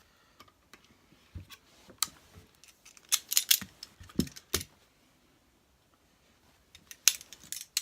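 Clicks and clinks of small motor parts, a washer and the cooling fan from a Hoover vacuum cleaner motor, being handled and set down, in several short clusters with quiet gaps between.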